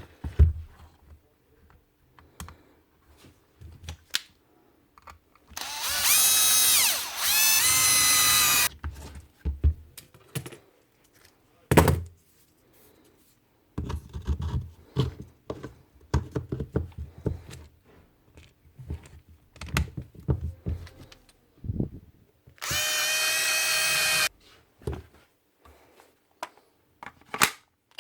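Milwaukee M18 Fuel brushless cordless drill run in two bursts, one of about three seconds about six seconds in with its pitch rising and falling, and a shorter one near the end, with clicks and knocks of the tool being handled between them. It is being test-run after its failed front rotor bearing was replaced.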